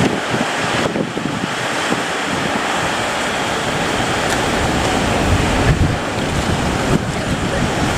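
Heavy surf breaking and washing, with wind buffeting the microphone.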